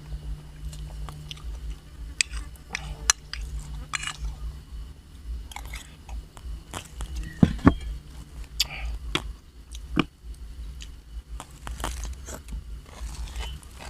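Close-up eating sounds of seafood papaya salad with squid: irregular crunchy bites, chewing and wet mouth clicks, over a steady low hum.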